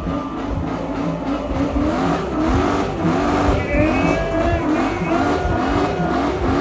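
Car engine revving up and down again and again over a steady rush of noise.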